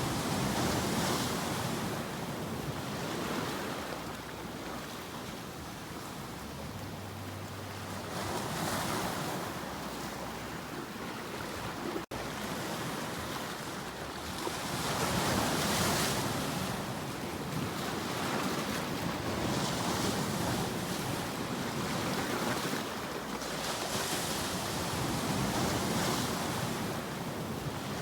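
Sea waves breaking and washing on a shore, the surf swelling and easing every several seconds, with a momentary dropout about twelve seconds in.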